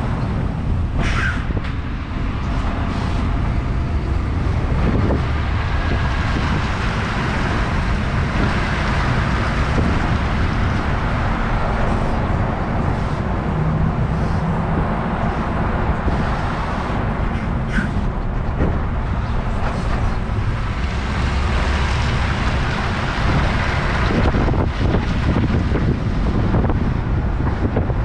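Truck and trailer driving on the road: a steady rumble of engine and tyre noise with wind over the microphone.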